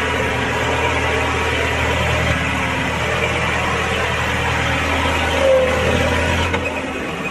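An engine-like sound running steadily, with a low hum that drops away near the end.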